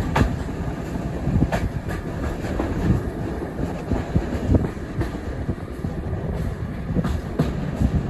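Railway carriage running along the track, heard from aboard: a steady low rumble with scattered uneven clicks and knocks from the wheels over the rails.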